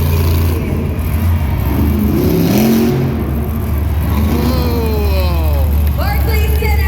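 Monster truck engine revving hard over a steady low rumble, its pitch rising about two seconds in and falling away between about four and six seconds in.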